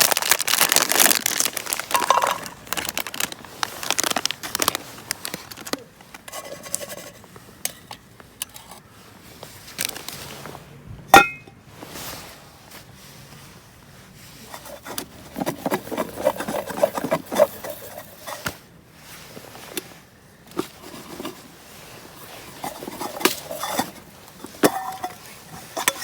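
Crinkling and rustling of a plastic food packet, then scattered clinks and scrapes of dishes and utensils, with one sharp click about eleven seconds in.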